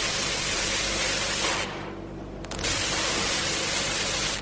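A steady hiss like static, even across the range with no clear pattern. It fades for about a second around two seconds in, then returns at the same level.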